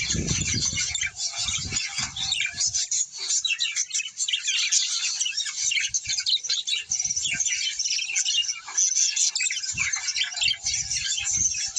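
A flock of small birds, likely cage or aviary birds, chattering and chirping continuously in dense overlapping high-pitched calls with occasional squawks. There are a few short low thumps in the first second and again near the end.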